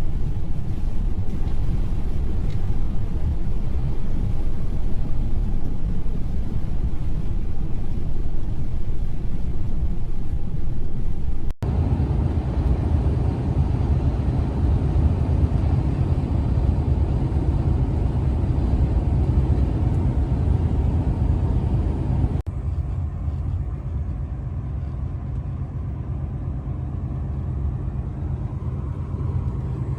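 Steady low rumble of a big truck on the move, engine and road noise together. The sound jumps abruptly twice, about a third and two-thirds of the way through, each time changing slightly in tone.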